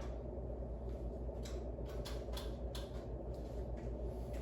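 A steady low hum, with a few faint short clicks in the middle.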